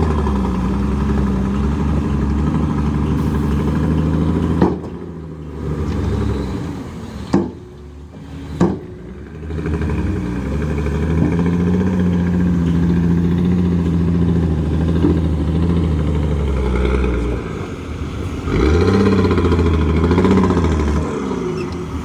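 Heavy diesel engine of a Shantui DH17C2 bulldozer working under load, its pitch rising and falling with the throttle. It eases off twice, about five seconds in and again around eight to ten seconds, with three sharp metallic clanks, then pulls strongly again.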